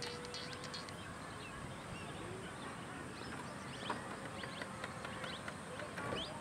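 Birds chirping in short, scattered calls over quiet open-air background noise, with a faint steady hum and sharp clicks about four and six seconds in.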